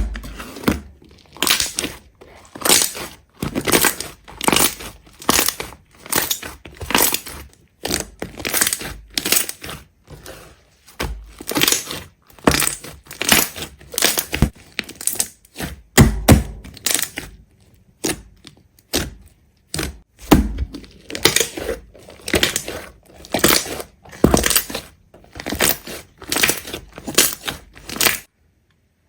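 Repeated crisp crunching, about one or two crunches a second, like something brittle being crushed or broken; it stops abruptly near the end.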